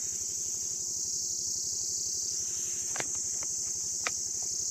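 Steady high-pitched chorus of insects droning without a break, with two short clicks about three and four seconds in.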